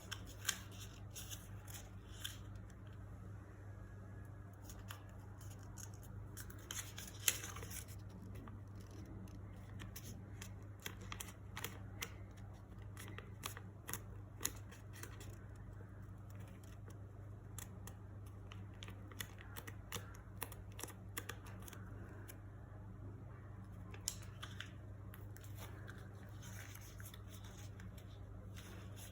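A sheet of origami paper being folded and creased by hand: irregular crisp clicks and short rustles. A steady low hum runs underneath.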